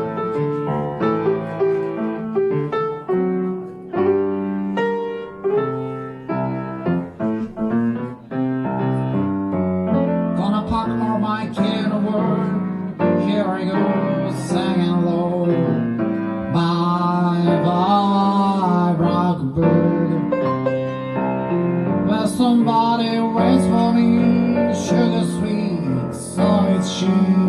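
Piano playing jazz chords in a swing-standard style, with a voice joining in singing over it from about ten seconds in.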